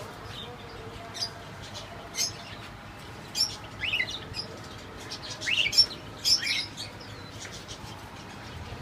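Parrots chirping: scattered short, sharp rising chirps, with a busier cluster about six seconds in.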